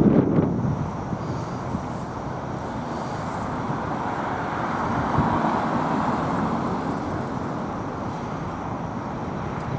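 Road traffic going by, with tyre and engine noise swelling about five seconds in as a vehicle passes and then easing off.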